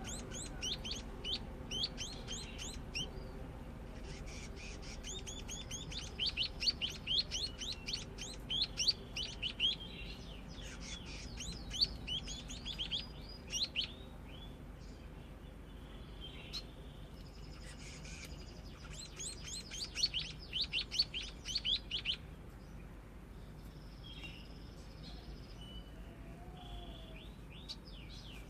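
Munia (pipit/emprit) practising its song: bouts of rapid, high chirping notes in quick runs, with pauses and a few sparser notes near the end. It is a bird still learning to sing.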